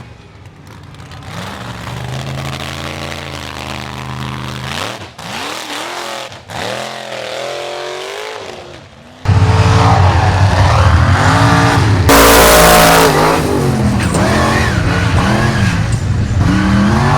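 Truck engines revving, the pitch rising and falling. About nine seconds in the sound jumps to a much louder, closer engine revving hard, with a short loud rushing burst about three seconds later.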